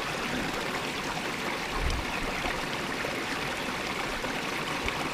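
Small mountain spring creek, its water running and trickling steadily over stones.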